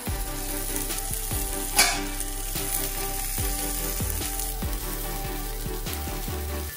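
Stuffed bitter gourds (karela) sizzling as they shallow-fry in oil in a pan, with a sharp knock about two seconds in.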